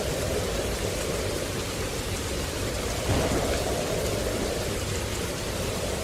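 Steady water noise, a continuous dense hiss with a brief swell about three seconds in.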